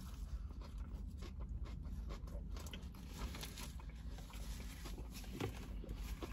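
A person chewing a mouthful of burger close to the microphone: faint wet mouth clicks and ticks over a low steady hum.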